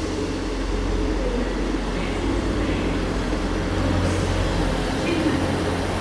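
Class 158 diesel multiple unit's underfloor diesel engines running steadily with a low hum as the train draws into the platform.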